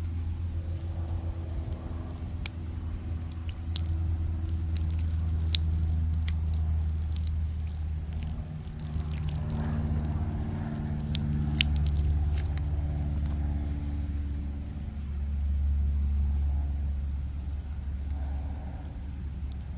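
An engine running steadily with a low hum, its pitch wandering slightly. Scattered sharp clicks and crackles are heard through the middle stretch.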